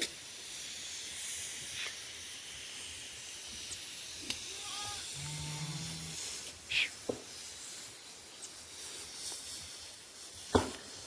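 Steady high-pitched outdoor hiss, with a few brief sharp sounds scattered through it and a short low hum about halfway.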